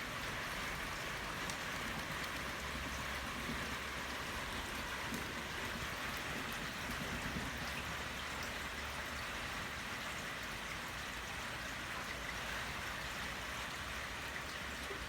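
Steady light rain falling, an even hiss with faint scattered drop ticks.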